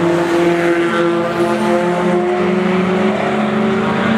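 Engines of several cars lapping a race circuit, heard together. Their engine notes rise and fall in pitch as they come through a corner.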